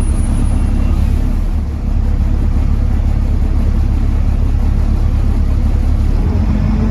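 Volvo D7C 7.3-litre diesel engine of a Volvo B7TL double-decker bus running steadily under way, with a brief dip in level a little under two seconds in.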